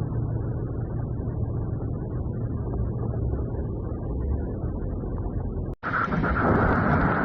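Low, muffled steady rumble of vehicles in a flooded street. About six seconds in, the sound cuts abruptly to a brighter, louder steady hiss of water.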